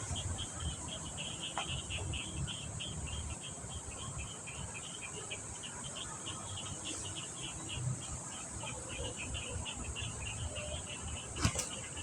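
Crickets chirping in a fast, even run of high pulses over a steady high hiss, with a sharp click near the end.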